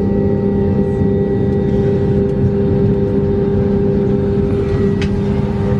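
Steady hum inside an Airbus A320 cabin during pushback, a continuous drone with several steady tones running through it.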